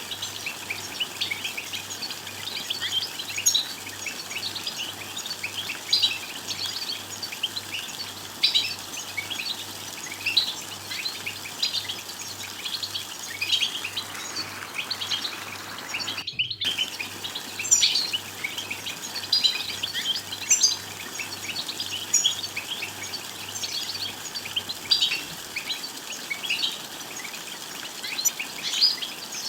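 European goldfinches calling: a continuous stream of quick, short, high twittering chirps. The calling cuts out for a split second just past halfway.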